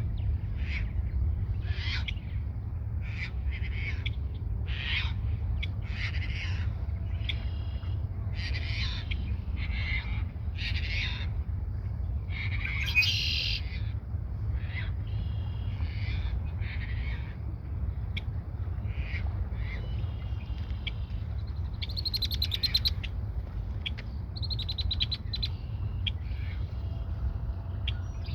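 Red-winged blackbird giving short, sharp calls about once a second, with a louder buzzy, trilling song twice, about halfway through and again later. A steady low rumble runs underneath.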